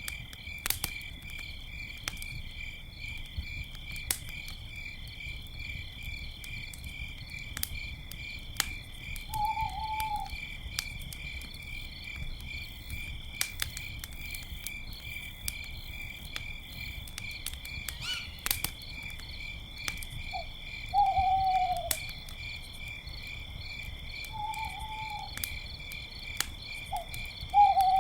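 Crickets chirping in a steady, fast pulsing trill, with a wood campfire crackling in sharp pops. Short owl calls falling in pitch come through louder than the rest: one about ten seconds in and three more in the last third.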